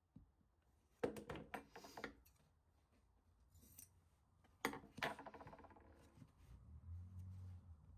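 Hand upholstery tools at work on a chair: a cluster of quick sharp clicks about a second in, then a single sharp snap near the middle that rings briefly, the kind of sound made by a manual staple gun or scissors cutting fabric.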